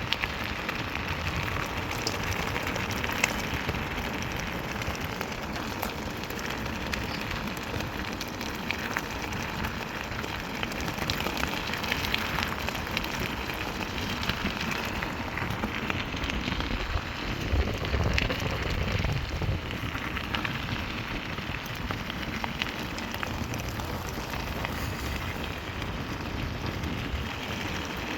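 Continuous crackling and rustling of footsteps through dry forest leaf litter and twigs, full of small snaps. A brief low rumble comes about two-thirds of the way through.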